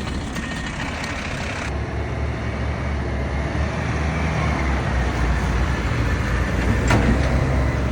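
Dump truck's diesel engine running with a steady low rumble, growing gradually louder, with one short click about seven seconds in.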